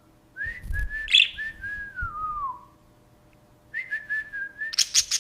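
Budgerigar whistling: a clear whistled phrase that wavers and then falls in pitch, a second shorter phrase, then a quick run of sharp chirps near the end.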